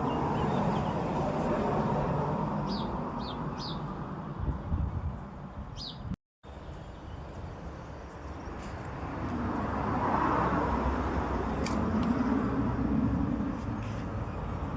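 Outdoor field recording dominated by steady, traffic-like background noise that swells for a few seconds in the second half, with a few short, high bird chirps: three quick notes around three seconds in and one more just before a brief cut to silence about six seconds in.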